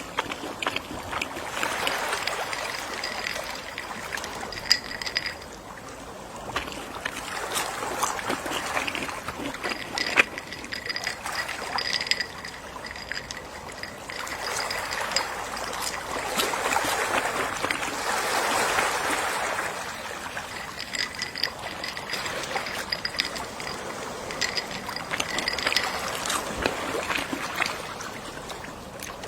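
Gentle sea waves washing in and drawing back, swelling to their loudest around the middle, with a constant crackle of small clicks and faint short high pips recurring throughout.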